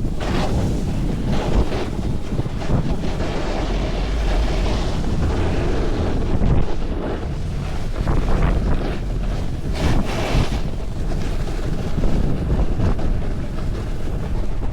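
Wind buffeting the microphone: a loud, steady rush with a heavy low rumble, swelling and easing every second or so.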